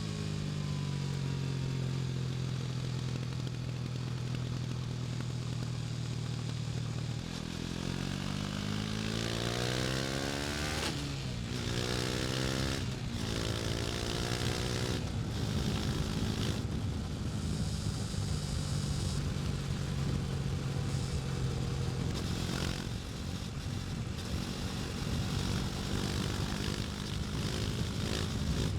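KTM 250 Duke's single-cylinder engine under way: it holds a steady note, then climbs in pitch as the bike accelerates, drops suddenly with a gear change about eleven seconds in, climbs again, and settles back to a steady note.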